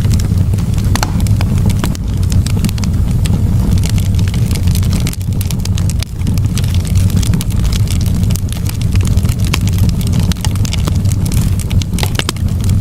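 Campfire burning, with frequent sharp crackles and pops of the burning wood over a steady low rumble.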